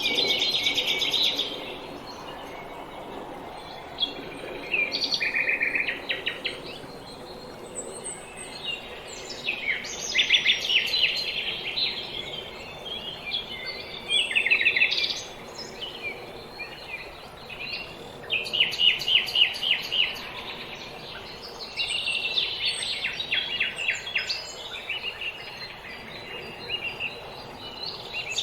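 Several small songbirds singing in a spring dawn chorus: bursts of rapid trills and chirps every few seconds, some overlapping, over a faint steady background of outdoor ambience.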